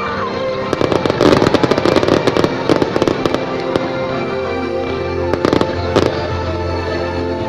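Fireworks going off, with a rapid run of sharp cracks and pops about a second in lasting a few seconds, then a few more bangs near the end. Music plays underneath throughout.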